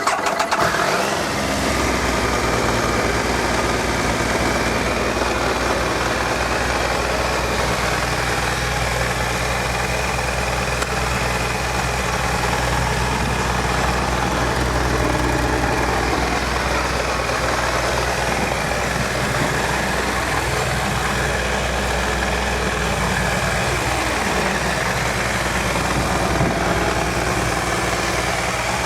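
Triumph Sprint RS 955i motorcycle's three-cylinder engine fired up on the starter button, then idling steadily.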